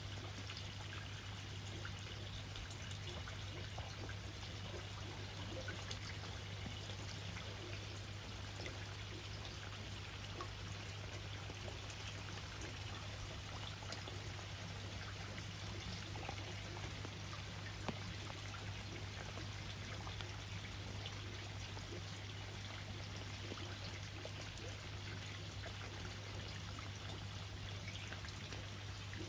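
Water pouring and trickling steadily, with a constant low hum underneath and one brief click partway through.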